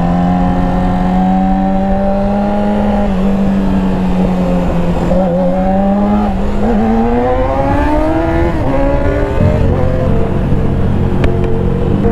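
Motorcycle engine, heard from the riding bike, running under steady throttle and then revving up in two rising pulls about five and seven seconds in. It settles to a lower, steady note about nine seconds in.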